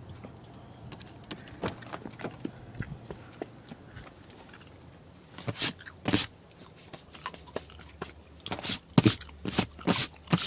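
Lexus ES300's 1MZ-FE V6 idling just after a cold start, a low steady hum. Loud crunching steps in snow come over it, two at about five and six seconds in, then a quick string of them near the end.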